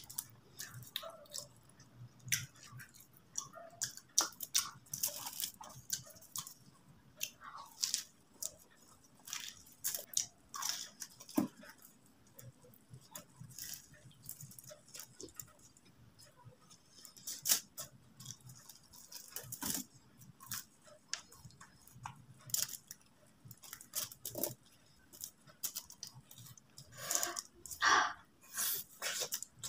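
Close-miked eating sounds: a person biting into and chewing crisp fried samosa pastry, with irregular crunches and crackles. The crunching is loudest a little before the end.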